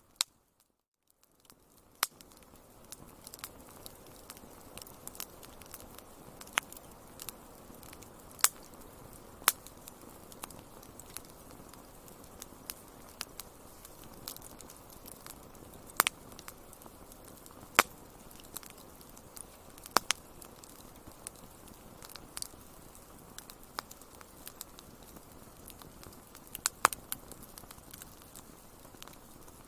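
Wood fire crackling: irregular sharp pops and snaps over a steady soft hiss. The sound drops out briefly about a second in, then resumes.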